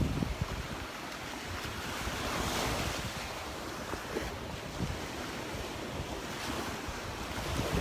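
Gulf of Mexico surf washing on the beach, with one wave swelling loudest about two to three seconds in, and wind buffeting the microphone in low rumbles.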